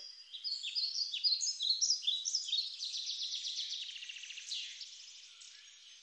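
Songbirds singing: a quick run of high chirping notes, with a rapid trill about halfway through that gradually fades near the end.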